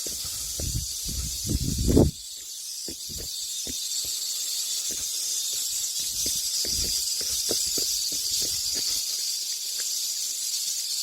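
Cicadas shrilling, a steady high-pitched buzz that cuts off at the end, with footsteps and rustling through vegetation below it, loudest in the first two seconds.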